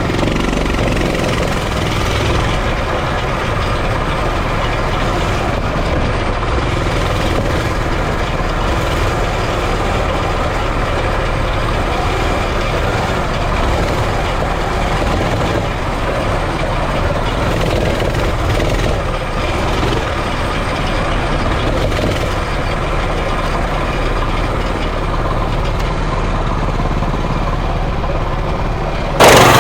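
Coleman CT200U minibike's small single-cylinder four-stroke engine running steadily under way. The sound jumps suddenly louder just before the end.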